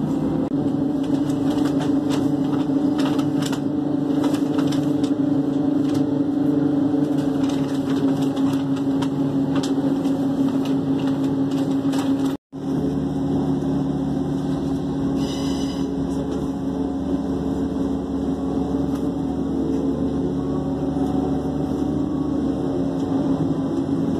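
Passenger train running, heard from inside the carriage: a steady hum over rumbling rail noise, with scattered clicks in the first half. The sound cuts out for a moment about halfway through, then carries on.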